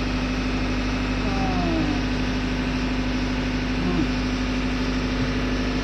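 Steady drone of an engine running in a ship's engine room, with a constant low hum. Faint voices sound under it.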